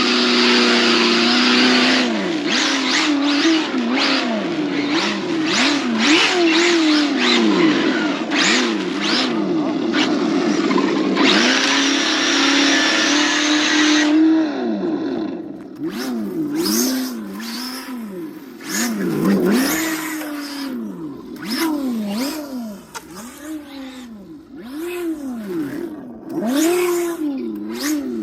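Electric brushless motor of a 4S RC touring car whining, its pitch rising and falling over and over with short bursts of throttle, about once a second. A loud hiss of tyres and wind sits under it for roughly the first half, with scattered sharp ticks.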